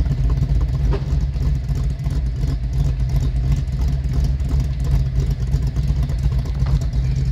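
Ford 351 Windsor V8 with an E303 camshaft, its exhaust note running steadily at a low, even engine speed.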